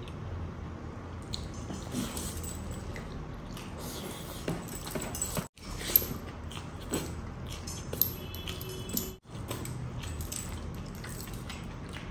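Close-miked mukbang eating sounds: chewing and wet mouth smacking of spinach-coated crispy chicken and rice eaten by hand, with many short sharp clicks. The sound cuts out briefly twice, about five and a half and nine seconds in.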